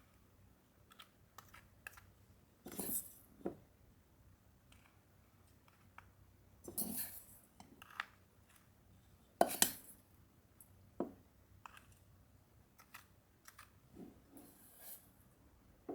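Small handling sounds in a small room: scattered light clicks and taps, with three louder, half-second noisy sounds about three, seven and nine and a half seconds in.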